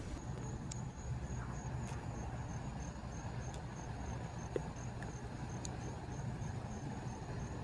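Cricket chirping in short, evenly spaced pulses of one high tone, about three a second, over a steady low rumble.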